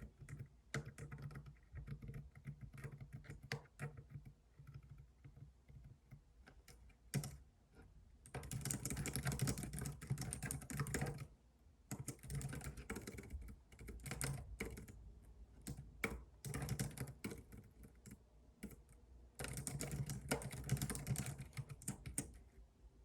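Computer keyboard typing in bursts: dense runs of rapid keystrokes alternate with scattered, slower clicks and short pauses.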